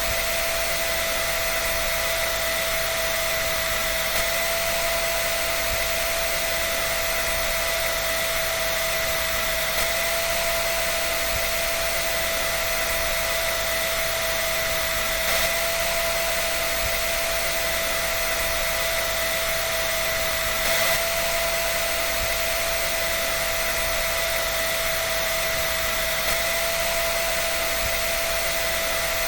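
Electric hair dryer running continuously: a steady rush of blown air with a constant high motor whine and no change in speed.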